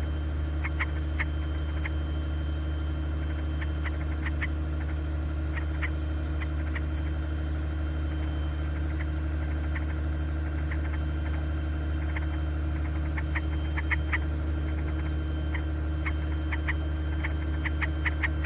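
Nestling birds chirping: short, high chirps coming in quick clusters every few seconds, over a steady low hum.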